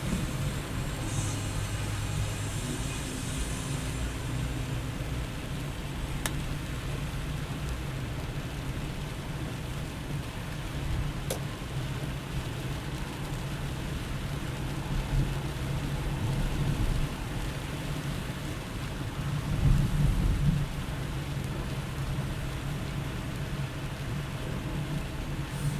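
Car driving on a highway in heavy rain: a steady hiss of rain and road noise over a constant low rumble, with a louder low rumble for about a second around twenty seconds in.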